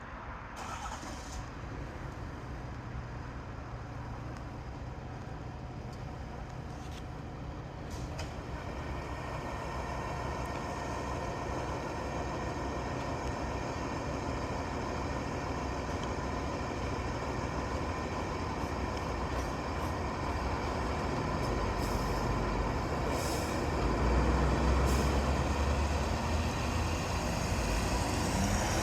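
A heavy fire-department truck engine running and rumbling, growing steadily louder, with a few short hisses along the way.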